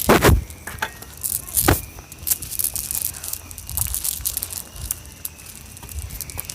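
Crackling, crunching rustle with many scattered clicks and two heavier thumps, one at the start and one about a second and a half in, over a faint steady high insect drone.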